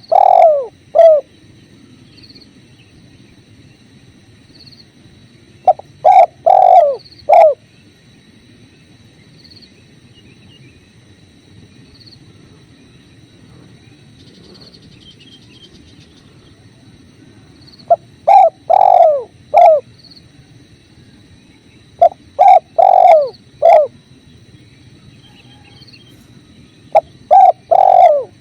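Spotted dove cooing: repeated phrases of three or four low, falling coos, each phrase several seconds apart, five in all. Under them runs the steady low rush of flowing river water.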